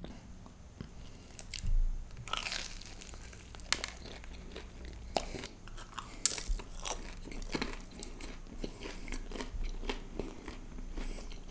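A person biting and chewing crunchy food close to the microphone, with irregular crisp crunches throughout.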